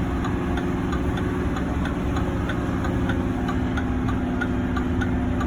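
A truck engine running steadily at low speed, with a light regular tick about three times a second.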